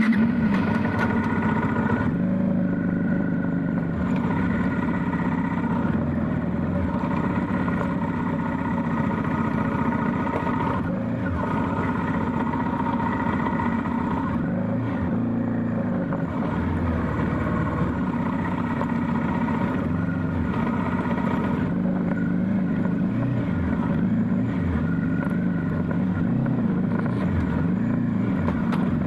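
Motorcycle engine running under way, its pitch rising and falling again and again as the rider speeds up and eases off.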